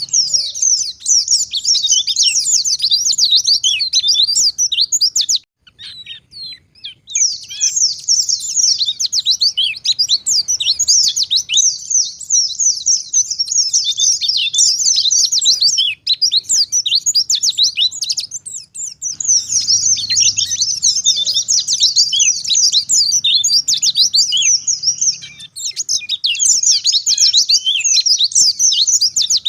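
White-eye (pleci) singing a long, fast stream of high, rapid chirps and twitters. It pauses for about a second and a half near the 6-second mark, then goes straight back in.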